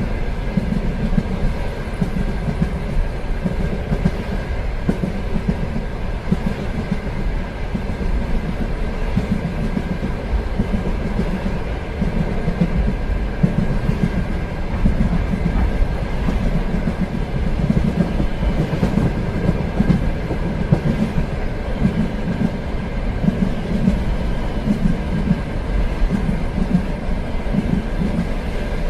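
A train running steadily along the track: a continuous rumble of wheels on rail, with a light clickety-clack and a faint steady whine above it.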